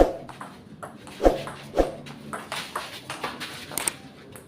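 Table tennis rally: the ball knocking off the bats and the table, three loud knocks in the first two seconds followed by a run of quicker, lighter taps.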